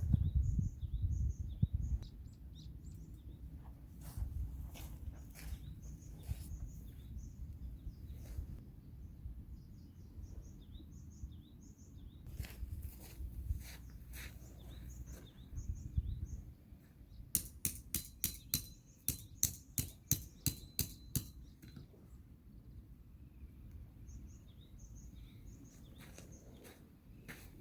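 Small birds chirping again and again over a low rumble, with scattered knocks. About two-thirds of the way in, a quick run of about twenty sharp clicks, some five a second, lasts about four seconds.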